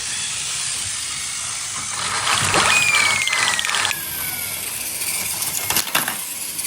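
Battery-powered Plarail toy train running on plastic track, its small motor and gears whirring steadily. A single falling whistle tone sounds about three seconds in, and a few sharp clicks come near the end.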